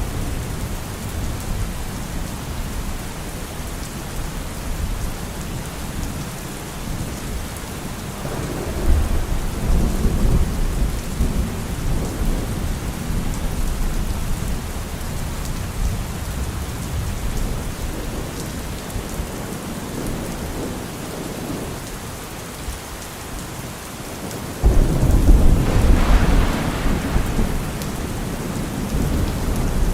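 Steady rain falling, with thunder rumbling twice: a low roll about eight seconds in, then a louder peal that breaks out suddenly near the end and slowly dies away.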